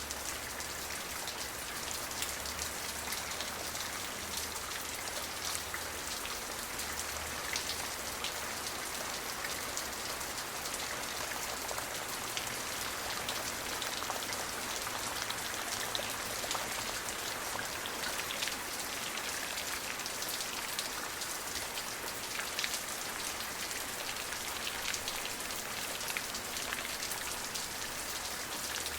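Steady rain falling, a constant hiss of many drops with frequent small, sharp drop ticks on a hard surface.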